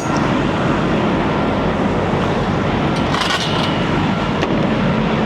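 Semi-truck engine running steadily, heard as a loud even rumble and noise, with a brief hiss about three seconds in.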